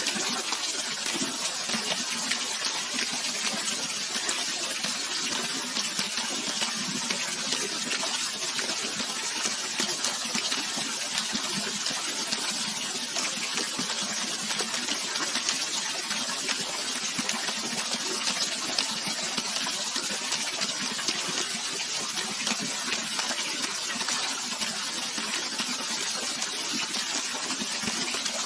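Steady, unbroken rush of flowing water, its hiss strongest in the upper range with little low rumble.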